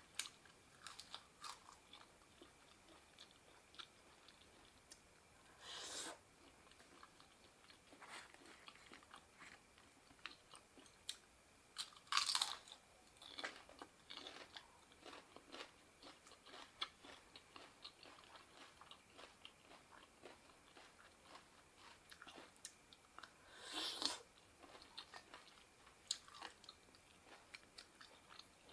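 Close-up eating sounds of a person chewing spicy seafood papaya salad: a run of small wet clicks and crunches, with three louder crunches spread through.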